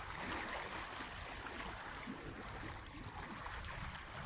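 Steady rush of sea water, waves washing without a break.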